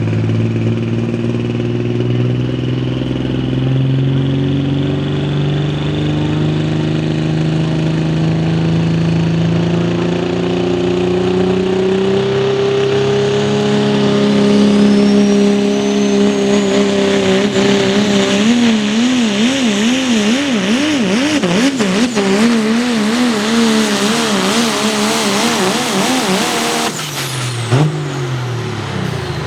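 Diesel 4x4 pickup truck pulling a weight sled, engine held under heavy load with its pitch slowly climbing. About halfway through the engine speed starts wobbling up and down rapidly and regularly, and near the end the engine comes off the throttle and its pitch falls away sharply.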